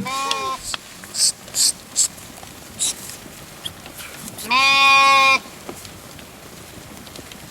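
Sheep bleating: a short bleat at the start and a longer, louder, steady bleat about four and a half seconds in, with a few short hissing noises between them.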